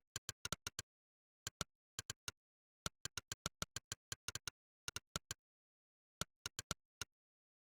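Monkeytype's synthetic "click" keystroke sound, one sharp click per key pressed, in quick irregular runs of several a second that follow the rhythm of typing. The runs break off for short pauses, the longest just under a second, and stop shortly before the end.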